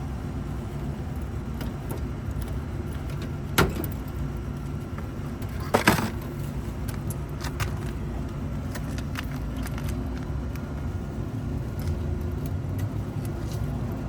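Air-conditioning unit running with a steady low hum, with two sharp clicks, one about three and a half seconds in and a louder one about six seconds in.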